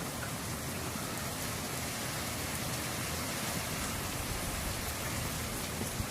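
Rain pouring steadily, an even hiss of heavy rain soaking everything outside.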